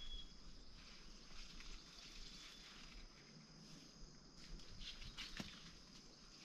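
Near silence: faint outdoor background with a steady high hiss and a few soft ticks about five seconds in.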